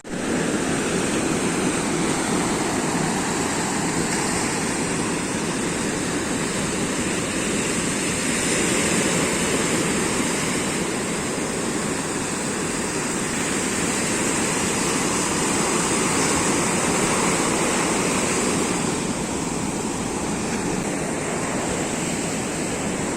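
Steady rushing water, a dense unbroken roar that swells and eases only slowly.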